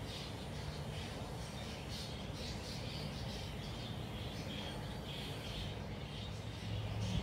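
Background birds chirping in short, scattered calls over a steady low hum; near the end a deeper hum grows louder.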